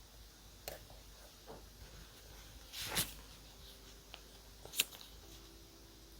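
Paper and stationery handling: a few light taps and clicks, with one short paper rustle about three seconds in.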